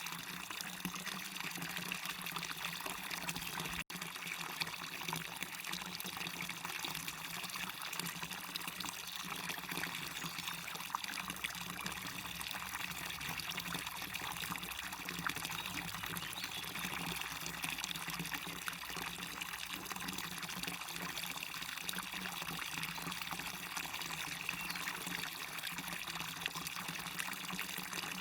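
Waterfall water pouring and splashing steadily. There is a momentary cut to silence about four seconds in.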